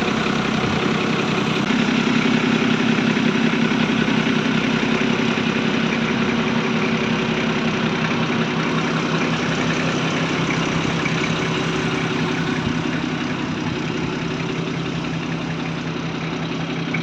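Truck engine running steadily at a constant speed, with a steady hum, while a truck-mounted Hiab crane lifts a cab off a ute chassis.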